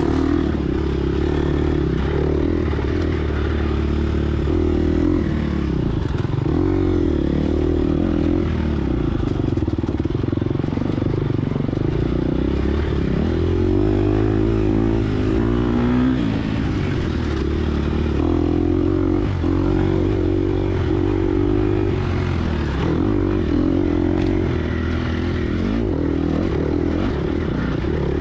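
Gas Gas EX250F four-stroke single-cylinder dirt bike engine revving up and down continuously while being ridden hard off-road, its pitch rising and falling through the throttle and gear changes.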